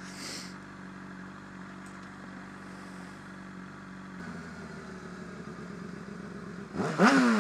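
Motorcycle engine idling steadily; about seven seconds in it is suddenly revved, the pitch jumping up and then falling away.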